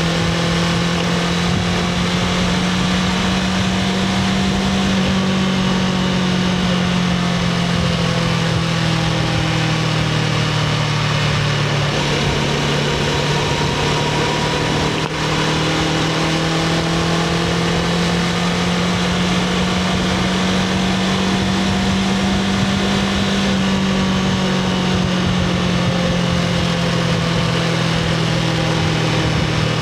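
Honda CBR500R's parallel-twin engine through its stock exhaust, running at steady moderate revs, its pitch sagging slowly and rising again twice. There is a brief dip in level about halfway through.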